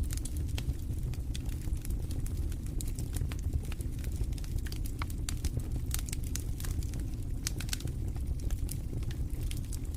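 Wood fire burning in a fireplace: a steady low rumble of the flames with frequent irregular pops and crackles of the burning logs.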